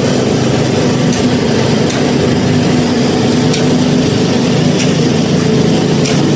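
An engine running steadily at a constant pitch, with a few faint clicks now and then.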